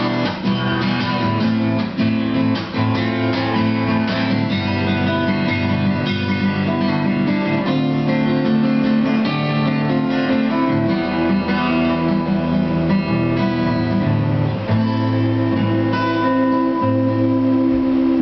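Two acoustic guitars playing the instrumental close of a song: strummed chords with a picked melody line over them.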